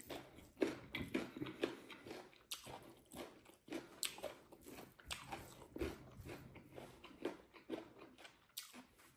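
A man chewing and biting food close to the microphone, with irregular wet chewing and biting sounds one or two a second. He is eating fried pork and rice.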